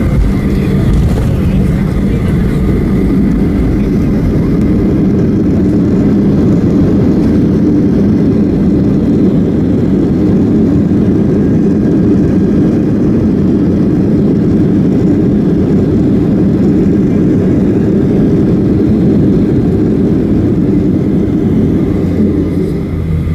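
Boeing 737-800's CFM56 turbofan engines and rushing air heard from inside the cabin during the landing: a loud, steady low roar that eases slightly near the end.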